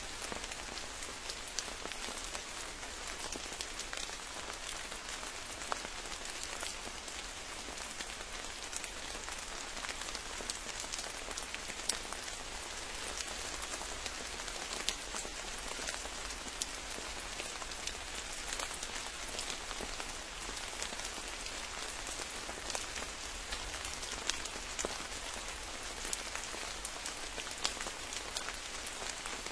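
Steady rain falling, with a constant hiss and many separate drops pattering on close surfaces.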